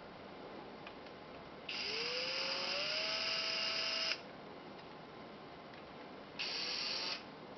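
Makita DF032D cordless drill-driver's motor and gearbox run twice: a run of about two and a half seconds whose pitch rises as it speeds up, then a short burst near the end. It is run to show a strange noise that the owner hears only when it is held upside down, which service found no fault in.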